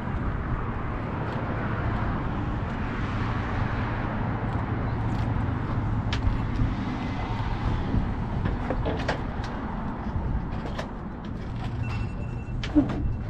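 A vehicle engine running with a steady low hum, with scattered clicks and a sharper knock near the end.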